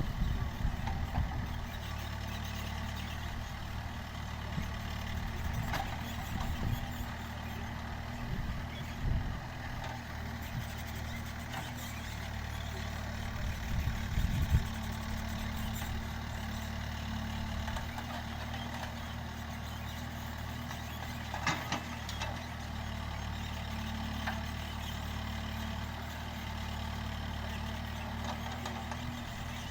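Backhoe loader's diesel engine running steadily at a low, even pitch, with a few short knocks or clanks.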